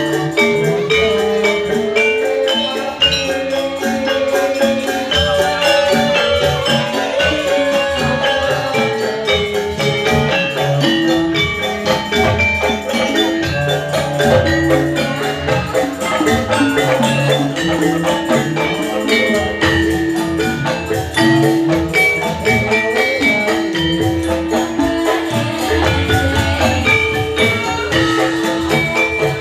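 Javanese gamelan accompaniment for a jathilan dance, playing instrumentally: fast runs of struck metallophone notes over low drum beats.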